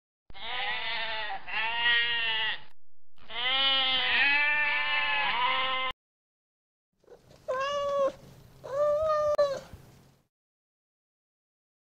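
Sheep bleating: three quavering bleats, the last the longest. After a pause, a cat meows twice.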